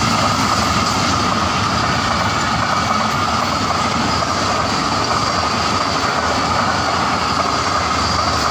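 Passenger train of green coaches running past at speed: a steady, loud rush of wheels on rail with a constant high ringing note over it.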